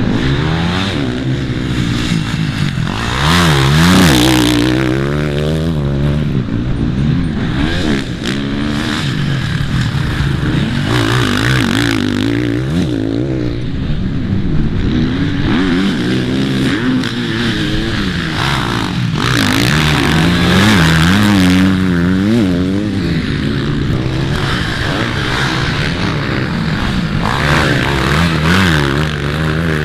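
Dirt bike engines on a motocross track, revving up and falling back again and again, their pitch rising and dropping as the bikes accelerate and shift.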